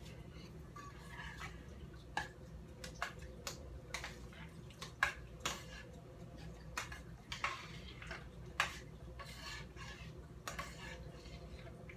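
Kitchen utensil clinking and knocking against a cooking pot while black beans are stirred and seasoned: irregular sharp clinks, a dozen or more, with a few short rustling stretches in between.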